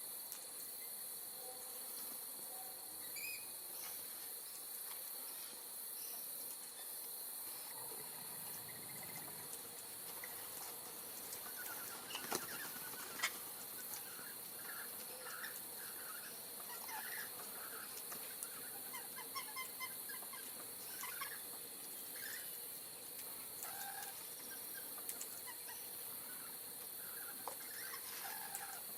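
Steady high-pitched insect drone with short bird chirps scattered through, growing more frequent from about eleven seconds in, and two sharp clicks around twelve and thirteen seconds.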